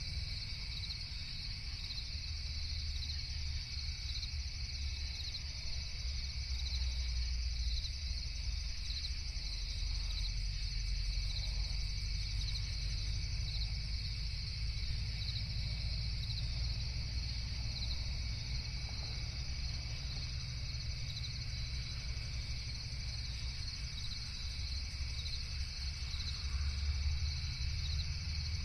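Night insects, crickets among them, chirping in a steady high-pitched pulsing chorus, with a second, lower steady insect drone and a low rumble underneath.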